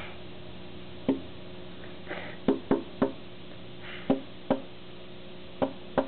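A small bird repeatedly striking a window pane at its own reflection: sharp knocks on the glass at an irregular pace, some singly and some in quick runs of two or three, about seven in all.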